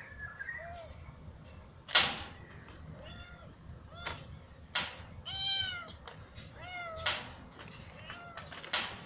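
A kitten meowing: several short, high meows that rise and fall in pitch, the two loudest a little past the middle. Four sharp clicks or taps come between them, the loudest about two seconds in.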